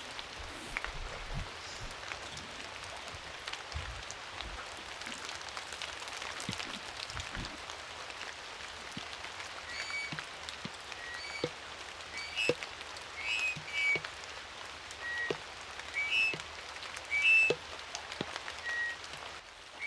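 Steady rain with individual drops tapping. From about halfway, short high chirping calls come roughly once a second, louder than the rain.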